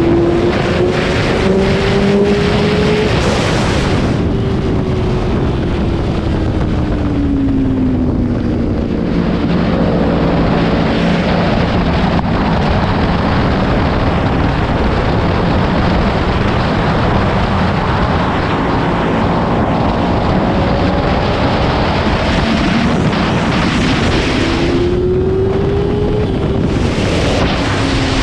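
Motorcycle engine under way on a race track, with heavy wind noise on the microphone. The engine pitch climbs over the first few seconds, falls away from about four to nine seconds in, and climbs again near the end.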